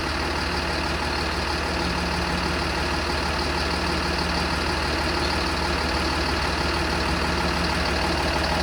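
School bus engine idling steadily, driving the chassis air-conditioning compressor while refrigerant is slowly added to the system.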